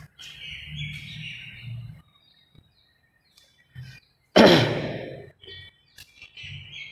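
Birds chirping faintly in the background over a low murmur. About four and a half seconds in, a short, loud rush of noise cuts in and fades within a second.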